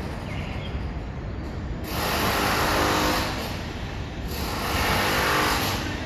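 Renovation work from a neighbouring building: two long runs of power-tool noise, each about two seconds, over a steady low rumble.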